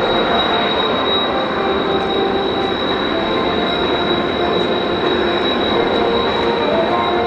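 Jet aircraft engines running steadily: a loud rushing noise with a constant high-pitched whine and lower tones that waver slightly.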